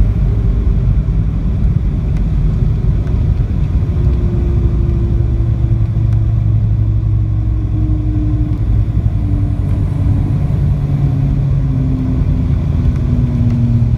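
Boeing 737 cabin noise during the landing: a loud, steady low rumble with a tone that slowly falls in pitch as the jet slows.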